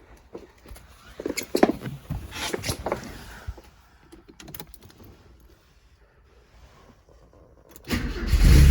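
A few light clicks and knocks, then a near-quiet pause; near the end the 1984 Porsche 944's 2.5-litre four-cylinder engine turns over and starts on a cold start, settling quickly into a loud steady run.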